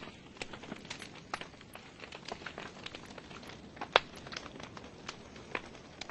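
Wood fire burning in a fireplace: burning logs crackling with irregular small pops over a faint hiss, one sharper pop about four seconds in.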